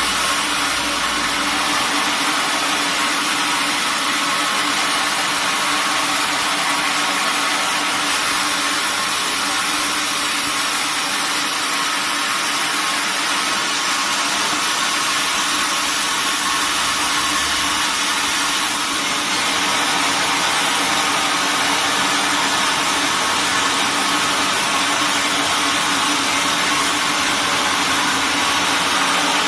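Sawmill machinery running with a steady, loud mechanical noise and hum, growing slightly fuller about two-thirds of the way through.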